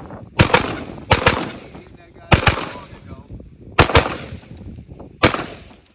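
Ruger AR-15 rifle with a binary trigger firing in quick doubles, one shot on the trigger pull and one on the release. There are four doubles, then a single shot near the end.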